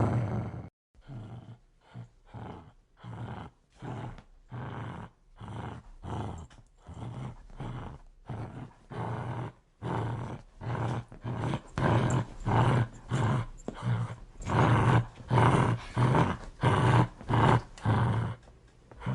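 Aggressive dog growling: a rapid run of short, rough growls, roughly two a second, that get louder about halfway through.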